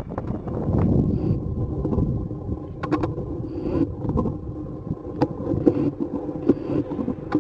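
Train passing close by: a steady rumble that begins suddenly, with scattered clicks and a faint high whine over it.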